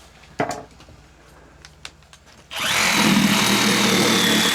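Handheld electric power saw started about two and a half seconds in and running steadily with a high whine, cutting through deer bone such as the sternum and pelvis. A short knock about half a second in.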